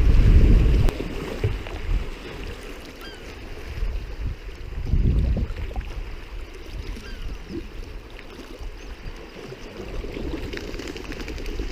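Wind buffeting the microphone in gusts over the sound of water around a sea kayak on the move. The gusts are loudest in the first second and swell again about halfway through, and there are a few faint high chirps.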